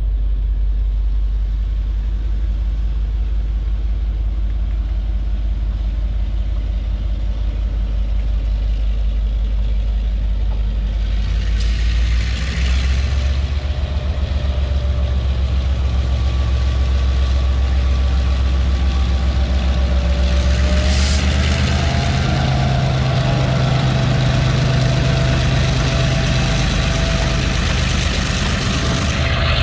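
Diesel-electric freight locomotives (an EMD G12 and two EMD G22CUs) running under load as the train pulls away. The engine note steps up about twelve seconds in and again around twenty-one seconds, as the throttle is notched up, with a brief hiss at each step.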